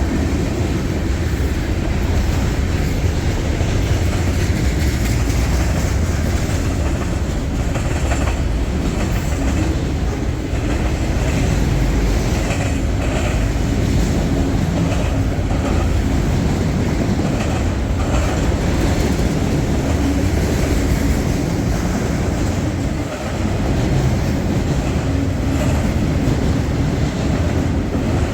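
Freight train cars rolling steadily past on the tracks.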